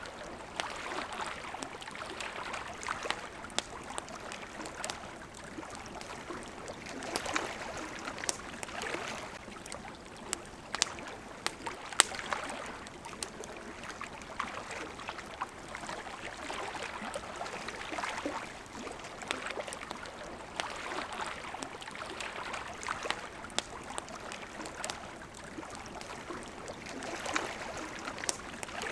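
Campfire crackling with scattered sharp pops, over small waves lapping at the water's edge in irregular swells.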